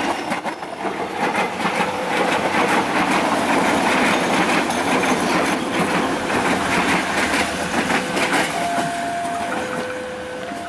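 Multi-car KAI diesel railcar train passing close by, its wheels clicking over the rail joints. The sound fades as the train draws away. From about eight seconds in, the level-crossing warning alarm sounds, a steady two-tone signal alternating between a higher and a lower pitch.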